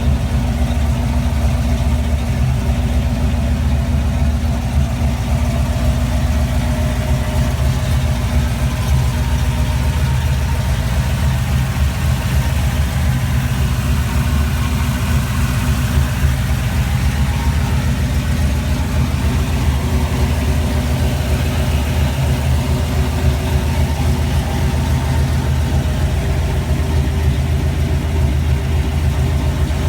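1980 Jeep CJ7 engine idling steadily, with an even pitch and no revving.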